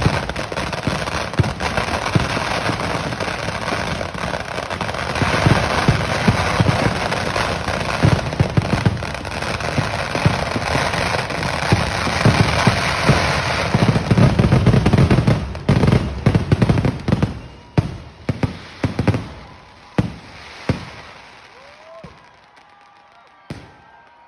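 Fireworks barrage: a dense, continuous volley of bangs and crackling. About fifteen seconds in it breaks up into separate loud bangs that come further and further apart toward the end.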